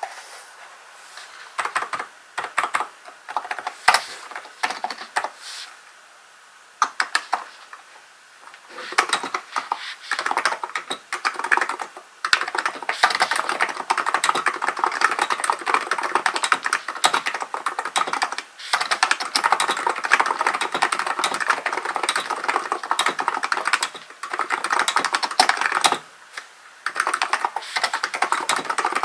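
Typing on a Hansung GK898B electro-capacitive (contactless) keyboard. Scattered keystrokes with short pauses give way, about nine seconds in, to fast steady typing, broken twice briefly near the end.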